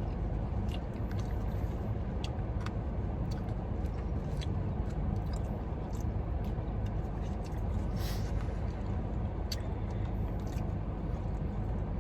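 Steady low rumble of a car, heard from inside the cabin, with scattered light clicks and taps throughout.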